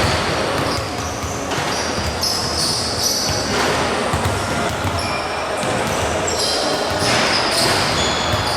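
Indoor basketball game: the ball bouncing and sneakers squeaking on the court, with crowd noise swelling and falling in a large hall.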